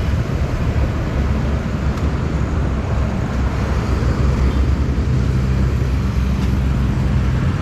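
Steady street traffic noise with a strong low rumble.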